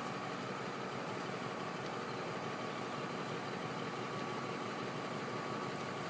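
Steady low hum and hiss, like a running motor or engine, with a faint high whine.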